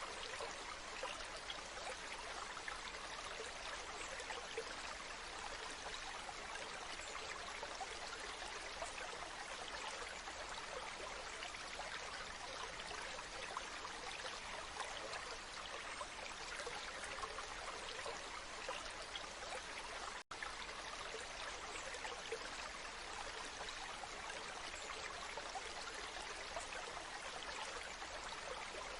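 Waterfall: water rushing and splashing in a steady, unbroken hiss, with a split-second dropout about twenty seconds in.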